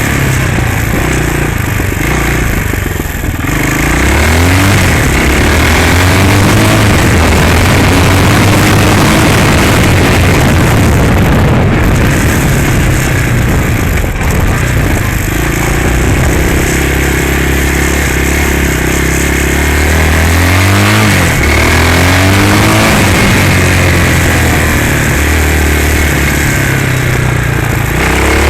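Hawk 250cc dirt bike's single-cylinder four-stroke engine running under way, its pitch climbing as it accelerates and dropping off several times, as on shifts and throttle changes.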